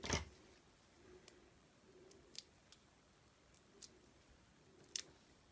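Cardstock and small craft pieces being handled on a table: a sharper tap right at the start, then a few faint, scattered clicks and light rustles.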